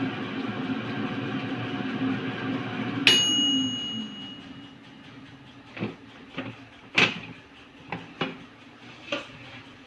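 Air fryer running with a steady fan hum, then a single electronic beep about three seconds in as it stops and the fan winds down. A few light knocks and clicks follow.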